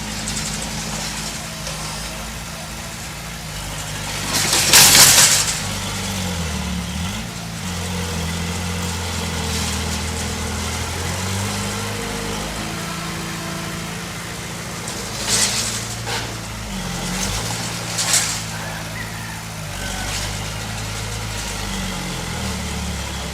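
Heavy diesel earth-moving machine working, its engine note rising and falling as the load changes. A loud burst of hiss comes about five seconds in, and two shorter ones follow later.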